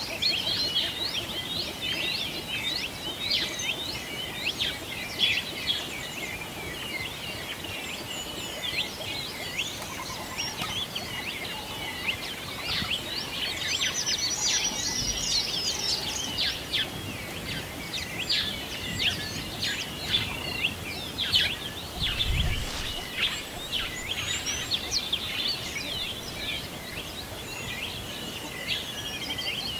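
Dense chorus of many small birds chirping and twittering continuously, with a brief low rumble about two-thirds of the way through.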